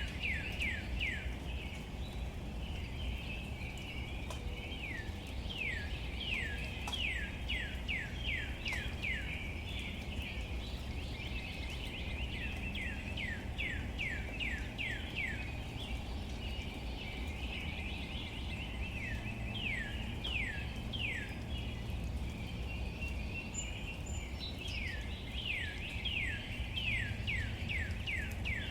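Outdoor ambience with birds: a bird sings runs of quick, falling whistled notes, about three or four a second, five times over, against a continuous twittering chatter and a steady low rumble.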